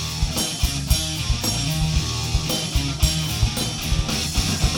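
Live rock band playing an instrumental stretch of a funk-rock song: drum kit keeping a steady beat, bass guitar and electric guitars, with no vocals.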